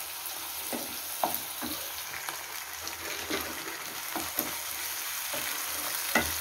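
Chopped onion, tomato and ginger-garlic paste sizzling in hot oil in a nonstick kadai while a wooden spatula stirs them. A steady sizzle runs under irregular scraping strokes, with a sharper stroke near the end.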